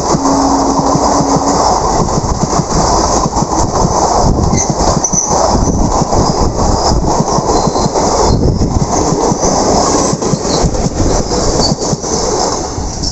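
Passenger train running past: a loud steady rumble with the wheels clattering over the rail joints, and brief high wheel squeals about five seconds in and again near the end, as the sound begins to fade.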